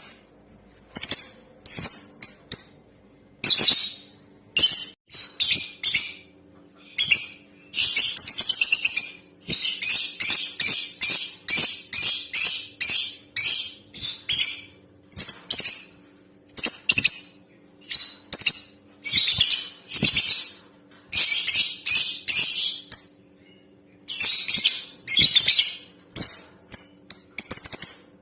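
Female lovebird calling: rapid bursts of short, shrill chirps, with a longer unbroken run of chirping about a third of the way in.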